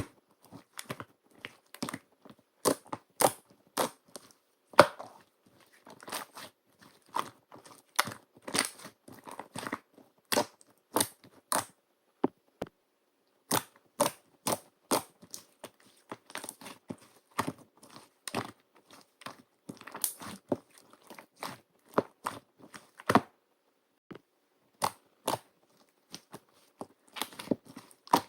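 Slime being squeezed, poked and stretched by hand, making an irregular run of sharp little clicks and pops, with a short pause near the end.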